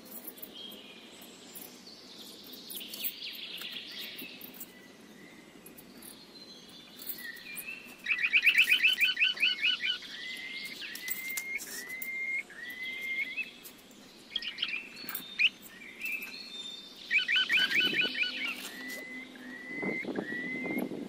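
Songbird singing: a rapid trill of fast repeated notes, then a string of short upward-hooked whistles about one a second. The phrase comes twice, about eight seconds in and again near the end.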